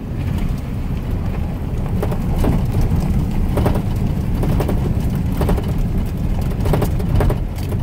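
Truck driving slowly over a rough, rutted dirt track in the woods: a steady low rumble of engine and tyres, with frequent sharp knocks and rattles as it jolts over the bumps.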